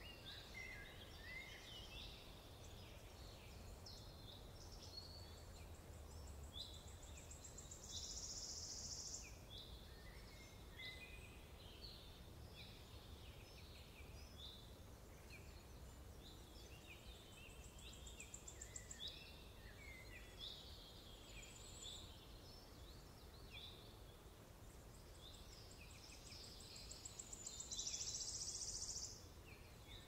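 Faint birdsong from several birds: many short chirps and whistles throughout, with a high buzzy trill about eight seconds in and again near the end.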